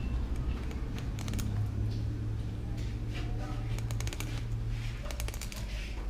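Knife tapping on a cutting board in three quick runs of clicks while raw fish is sliced for sashimi, over a steady low hum.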